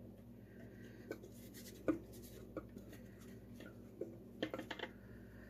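Scattered light taps, clicks and scrapes of a kitchen utensil against a container, with a quick run of clicks near the end, over a low steady hum.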